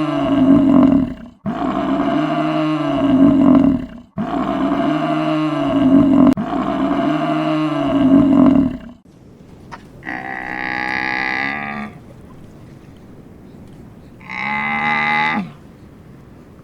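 Animal calls: a deep, drawn-out call with a rising-and-falling pitch, repeated four times back to back, then two shorter, higher-pitched calls a few seconds apart.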